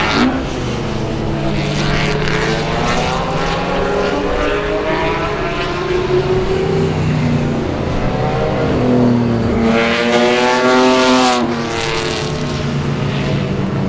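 Classic Ferrari V12 race car engines running at speed on a circuit, their pitch sliding up and down with the gear changes. One car passes close about ten seconds in, its note climbing and then dropping away as it goes by.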